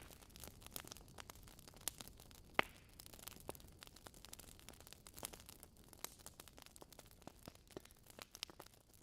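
Wood logs burning in a fireplace, crackling with irregular small pops and snaps over a faint hiss, with one louder pop about two and a half seconds in.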